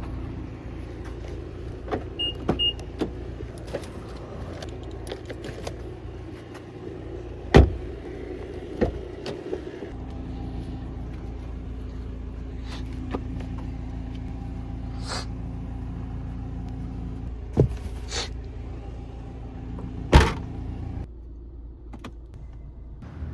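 A car running, heard from inside the cabin as a steady low hum, with several sharp clicks and knocks and two short high beeps early on; the hum drops away about 21 seconds in.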